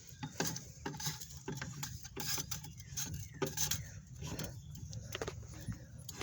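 Lug wrench clinking on the wheel's lug nuts as they are snugged up one after another: a run of irregular short metallic clicks and clinks.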